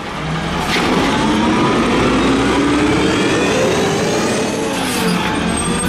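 Peterbilt 320 garbage truck's diesel engine revving hard. The pitch climbs after a dip at the start, eases off about four seconds in, and rises again near the end.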